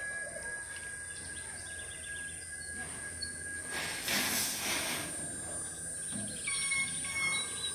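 Garden birds chirping over a steady high-pitched hum, with a brief rush of noise about four seconds in.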